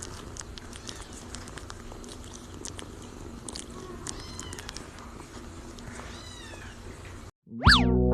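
A cat purring steadily, with a couple of short faint meows around the middle. Near the end the sound cuts out and loud music with boing effects starts.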